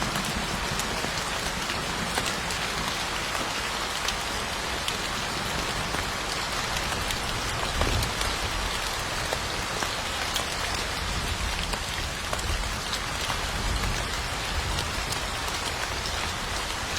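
Steady rain falling on a surface, with individual drops ticking sharply here and there through the even hiss.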